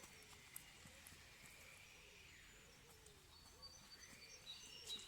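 Near silence: faint outdoor ambience, with a few faint high bird chirps near the start and again near the end.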